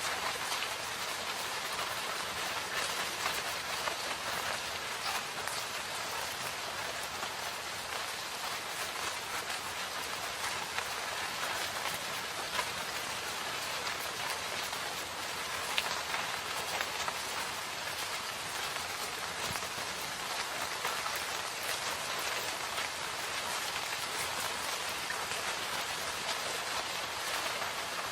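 Steady rain falling in a forest, a dense hiss of drops with many small patters.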